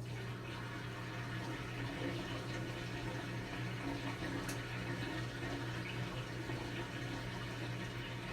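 Brastemp 17 kg top-load washing machine with water rushing steadily into it over a steady electric hum.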